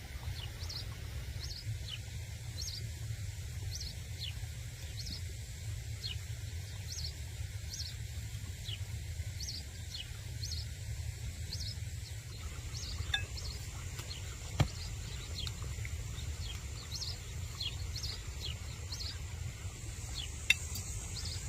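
Small birds chirping repeatedly, short high chirps about once a second, over a steady low rumble. There are a few sharp clicks about halfway through and near the end.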